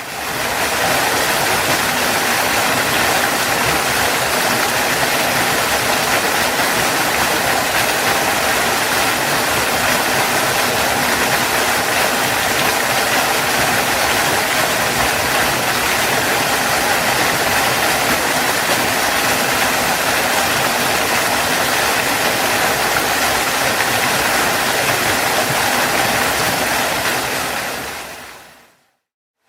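Waterfall: a steady, dense rush of falling water that fades in at the start and fades out just before the end.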